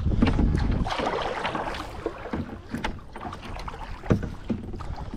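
Kayak setting off on the water: paddle splashes and knocks against the hull, with wind rumbling on the microphone in the first second.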